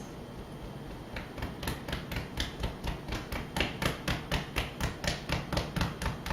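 Hands lightly tapping on the chest over the lungs, a steady rhythm of about three to four soft taps a second that begins about a second in.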